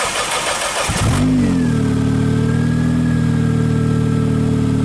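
Toyota Tercel engine, running on gear oil in place of motor oil, cranked by the starter for about a second, then catching with a brief rev and settling into a steady idle that purrs like a kitten.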